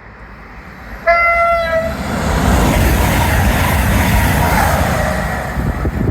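CrossCountry passenger train passing through the station. It sounds one short, single-note horn blast about a second in, followed by about four seconds of loud rushing wheel and engine noise as it goes by.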